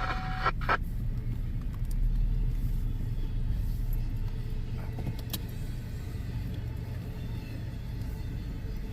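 Steady low rumble of a passing CSX freight train, with a few sharp clicks about five seconds in.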